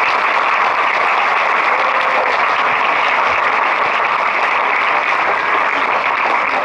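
An audience applauding: steady, dense clapping from many hands.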